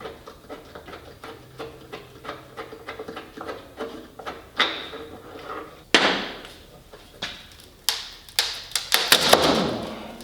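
Hand tools working on old truck hardware: a run of light clicks and taps, a sharp metal clank about six seconds in, then a cluster of knocks and clanks near the end.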